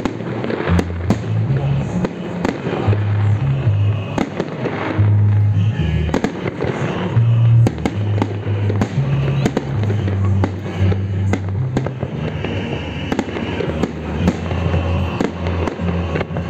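Fireworks display: aerial shells bursting in frequent sharp bangs and crackles, with music playing underneath, its low bass notes stepping steadily.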